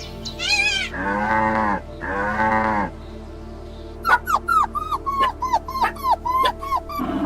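Animal calls over background music: two drawn-out calls, each about a second long, then a quick run of about ten short, high, falling yelps.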